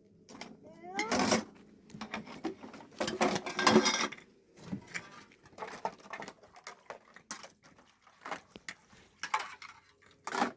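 Irregular clinks, knocks and scraping of household objects being handled, loudest about a second in and again around three to four seconds in, with a short rising squeak just before the first of these.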